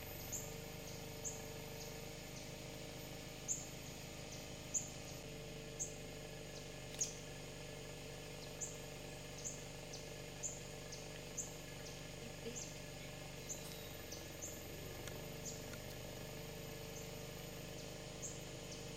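A small bird repeating short, sharp, high chip notes, roughly once a second at an irregular pace, over a faint steady hum of background ambience.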